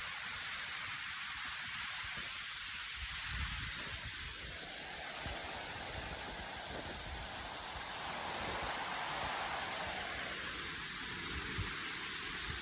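Waterfall water rushing steadily, the rush growing fuller for a few seconds in the middle, with uneven low rumbles underneath.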